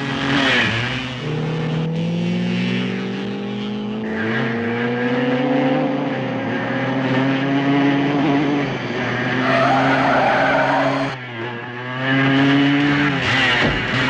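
Car and motorcycle engines in a high-speed chase, rising steadily in pitch as they accelerate, with a burst of tyre skidding about ten seconds in and engines picking up again near the end.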